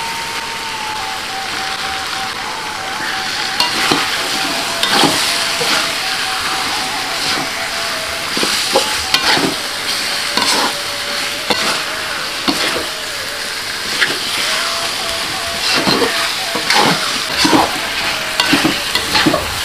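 Raw chicken pieces frying in green chili spice paste in a wok, sizzling steadily, while a slotted metal spatula stirs and scrapes against the pan in irregular strokes.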